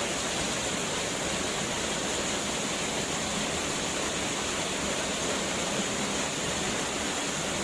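Waterfall: the steady, unbroken rush of falling water, an even hiss with most of its energy in the upper range.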